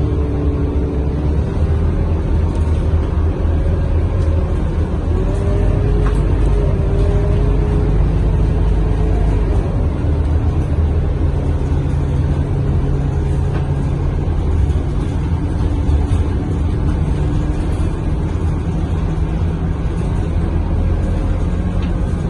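Scania K230UB city bus's five-cylinder diesel engine running under way, heard inside the passenger cabin: a steady low rumble with a drivetrain whine whose pitch rises and falls as the bus speeds up and changes gear.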